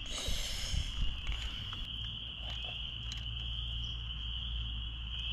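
A steady high insect chirring runs through, over a low steady hum. There is a brief rustle at the start and a few light clicks scattered after it.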